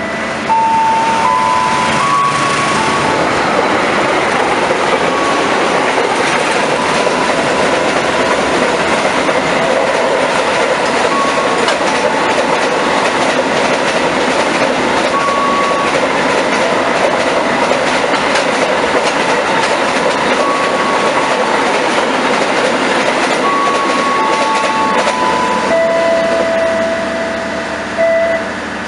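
A train passing close by with a loud, steady rumble of wheels on rail, and some clickety-clack. Short steady tones at several different pitches sound now and then over it, more of them near the start and the end.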